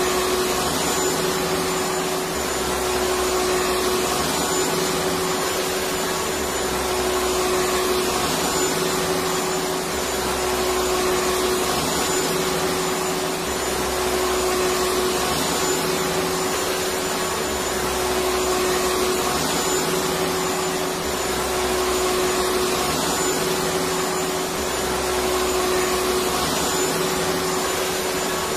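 Electric vacuum cleaner running steadily: a constant motor whine over a dense rushing of air.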